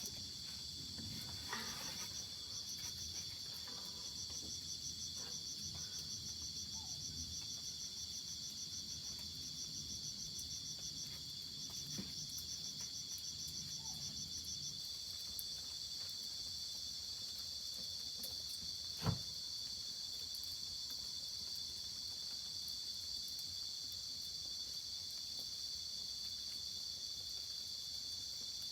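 Chorus of insects, typical of crickets, chirring steadily at a high pitch, with a fast pulsing trill over the top through the first half. A single sharp click comes about two-thirds of the way through.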